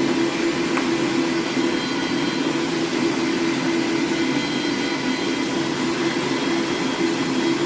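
Electric meat grinder running with a steady, unbroken hum while it grinds seasoned pork shoulder through a finer plate.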